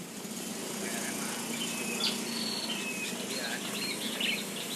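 Small birds chirping: short, high, rising notes, coming more often from about halfway through.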